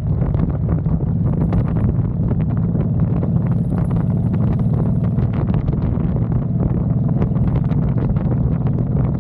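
Honda Fury's V-twin engine running steadily while riding, with wind buffeting the microphone.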